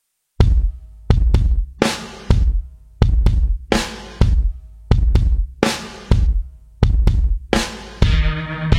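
Drum kit playing a repeating rock beat alone, bass drum and snare hits with ringing cymbals. Near the end, pitched instruments come in on top, with guitar tagged just after.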